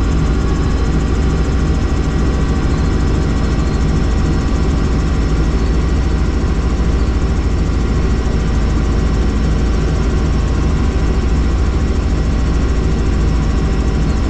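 Helicopter in flight: a steady, loud drone of rotor and turbine, heavy in the low end, with several steady tones over it.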